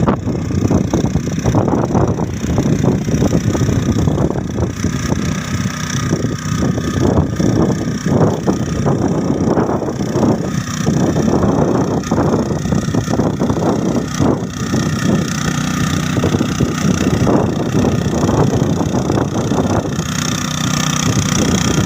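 Tractor engine running steadily while cultivating the soil.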